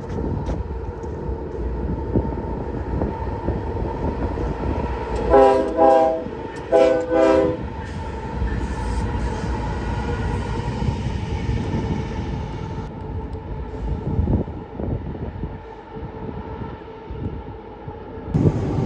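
Two Union Pacific diesel locomotives running light, engines rumbling as they pass, with the leader's Nathan K5HL five-chime air horn sounding four short blasts about five to seven and a half seconds in.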